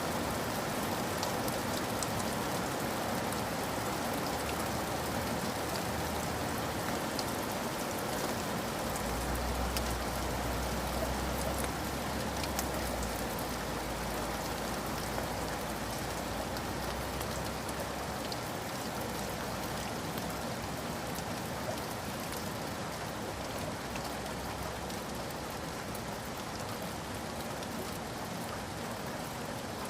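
Steady rain falling, an even hiss with scattered sharper drop ticks. A low rumble comes in about nine seconds in, strongest for the next few seconds, and fades out by about eighteen seconds.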